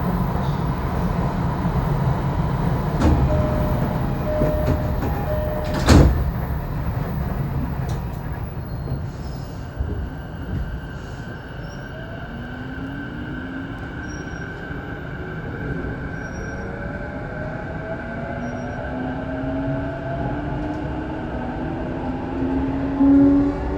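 Inside a JR Saikyo Line electric train at a stop: a short repeated door chime, then the doors shut with one loud thump about six seconds in. From about halfway, the traction motors give a whine that climbs steadily in pitch as the train pulls away and gathers speed.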